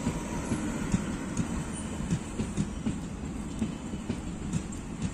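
Passenger express train coaches rolling along the track: a steady low rumble with irregular wheel knocks over the rail joints, a few a second.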